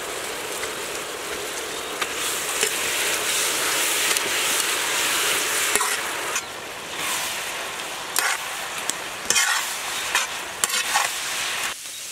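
Prawns sizzling as they fry in oil in a large black iron wok, a steady hiss. In the second half a metal ladle stirs them in several separate scraping strokes.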